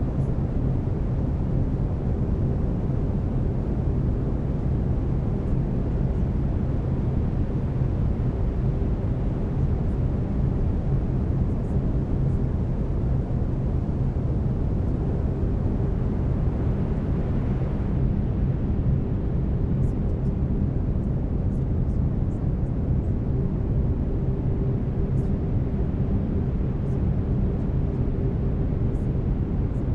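Brown noise: a deep, steady rushing hiss with no change in level, and low steady hum tones of binaural beats underneath.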